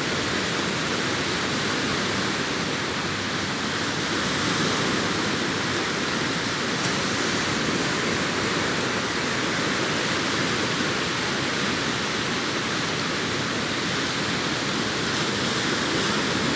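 Sea surf on a beach: breaking waves blending into one steady, even rush of noise.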